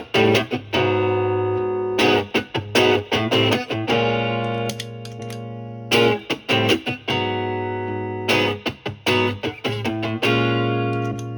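Stratocaster with three single-coil pickups played through a Marshall amp's clean channel and a Bluesbreaker-style overdrive pedal, giving a mild crunch. Clusters of picked and strummed chords come about every two seconds and are left ringing between phrases.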